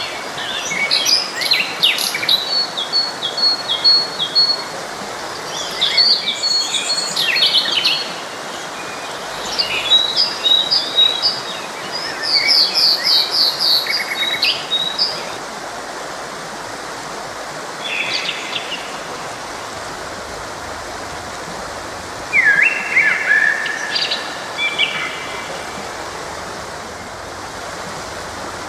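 Songbirds singing in short bursts of quick chirping, trilling phrases, over the steady rushing of a forest stream. The birdsong comes and goes, with quieter stretches in the middle and latter part where only the stream is heard.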